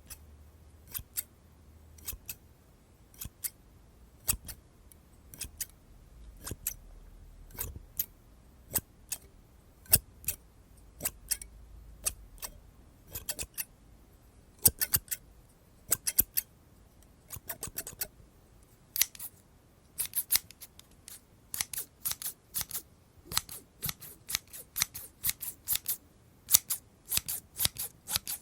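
Scissors snipping: single snips about once a second at first, then quicker runs of several snips a second from about twenty seconds in.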